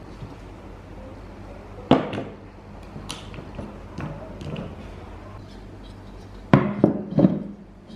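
Scattered knocks and clunks of hard objects being handled, one loud knock about two seconds in and three loud knocks in quick succession near the end, over a steady low hum.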